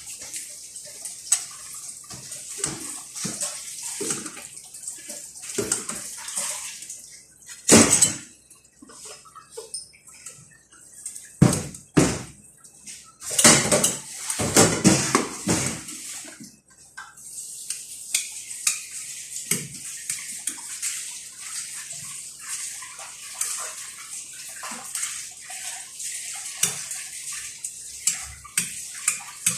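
Kitchen water sounds with scattered clinks and knocks of pots and dishes, louder clatter in the first half, then a steady hiss of running or splashing water.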